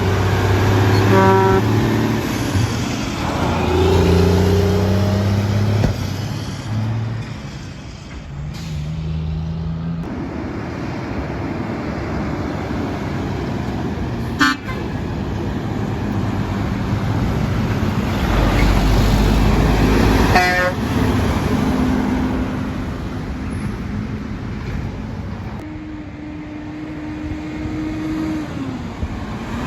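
Semi trucks passing on a road with steady traffic noise, their air horns blown: a long chord of horn tones in the first several seconds and another steady horn note near the end.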